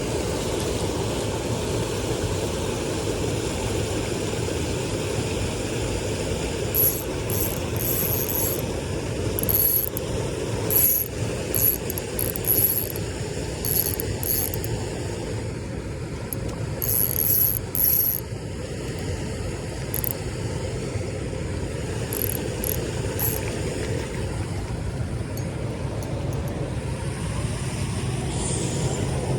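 Steady low rumble with short bursts of high-pitched mechanical clicking and whirring, clustered between about seven and eighteen seconds in.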